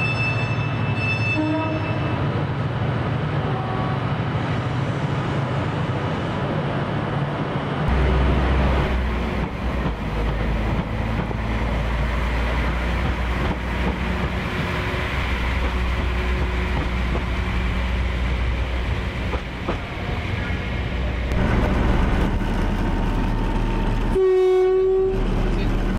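A train running past with a steady low rumble that grows heavier about eight seconds in, and a short, strong horn blast near the end.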